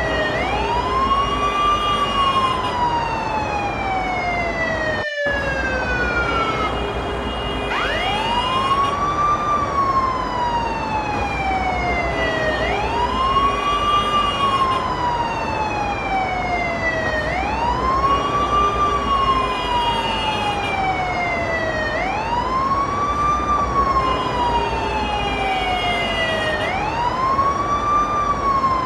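Ambulance siren wailing: each cycle sweeps up quickly and then falls slowly, repeating about every four and a half seconds, over a low rumble. About five seconds in, the sound cuts out for an instant and then resumes.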